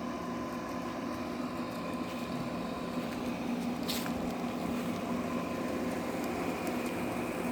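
Honeybees buzzing steadily around an open hive, a continuous hum, with one brief high-pitched tick about four seconds in.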